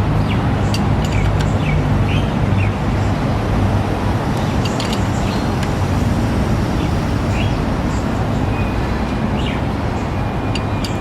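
Steady outdoor traffic rumble with a low hum, and small birds chirping on and off above it.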